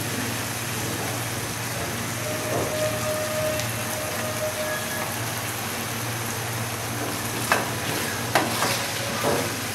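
Tomato-and-spice gravy sizzling as it fries in oil in a pan, stirred with a silicone spatula. A few short knocks of the spatula against the pan near the end.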